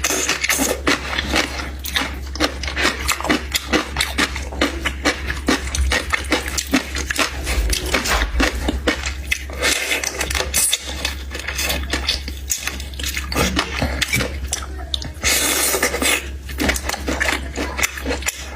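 Close-up eating sounds: a person chewing and biting, with many irregular small smacks and clicks.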